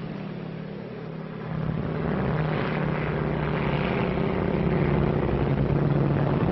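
Propeller airplane engine droning steadily, growing louder about a second and a half in as the plane comes closer.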